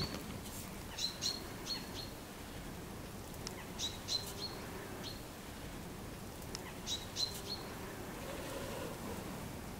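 Small bird calling out of sight: three quick runs of three or four sharp, high chirps, a few seconds apart, over steady outdoor background noise.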